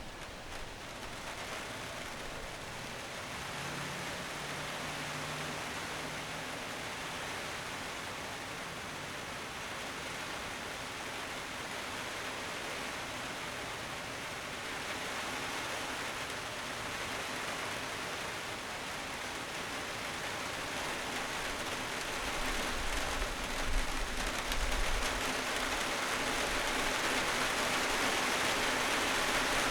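Wind blowing through trees, the leaves rustling in a steady hiss that slowly grows louder as a gust builds toward the end.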